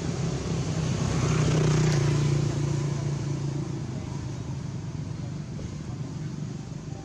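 A motor vehicle engine running with a steady low hum, loudest about two seconds in and then fading away, as if passing by.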